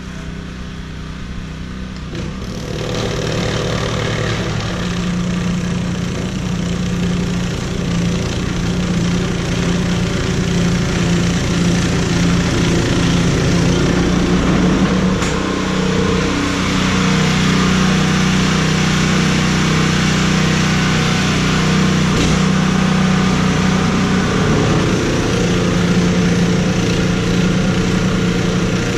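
A small engine running steadily, getting louder about two and a half seconds in and then holding.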